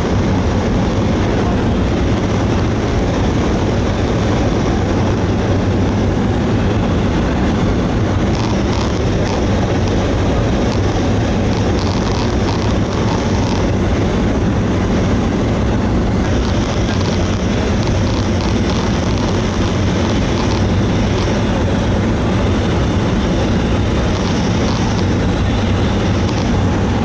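Cessna 208B Grand Caravan's single turboprop engine and propeller droning steadily in flight, heard inside the cabin as a loud, even noise with a low hum.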